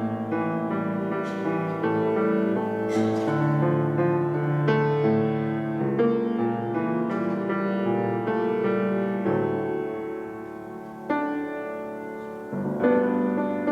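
Piano playing slow, held chords, getting softer after about nine seconds before a new chord is struck a little after eleven.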